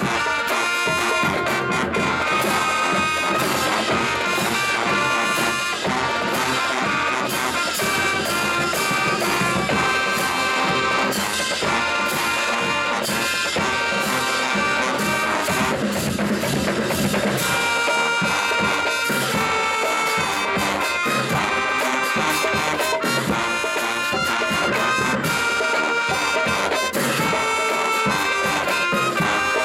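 HBCU marching band playing: brass section of trumpets and trombones over marching drums and cymbals, loud and steady with a driving beat.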